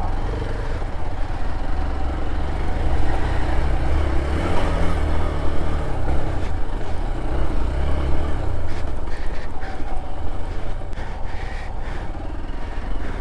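A vehicle engine working under load, its revs rising and falling several times through the middle of the clip over a steady low rumble.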